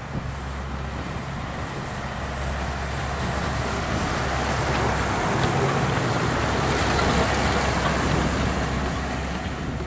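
Sugar cane train passing close: its diesel locomotives running with a steady low engine drone, and the noise of the loaded cane bins rolling on the rails, growing louder to a peak about seven seconds in and fading near the end.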